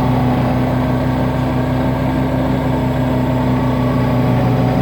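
Everest HP truck-mount carpet-cleaning machine's engine idling, a loud, steady drone with an even pitch.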